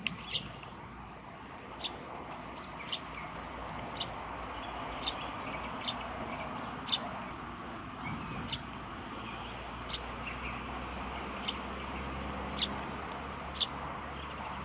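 A string of short, sharp, high chirps, about one a second, each dropping quickly in pitch. A steady background noise and low hum run underneath.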